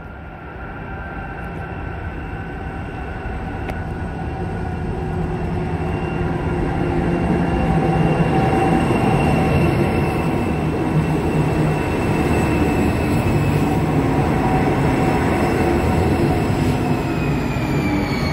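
Freight train hauled by a lashup of diesel-electric locomotives approaching and passing close by. The engine rumble grows louder over the first eight seconds and then holds steady. High whining tones run over it and slide down in pitch near the end as a locomotive goes past.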